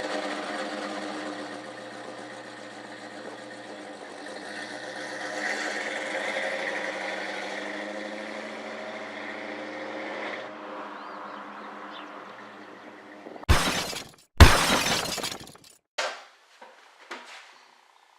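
A car engine running steadily for about ten seconds, then cutting off suddenly. A few seconds later come two loud, sharp bangs.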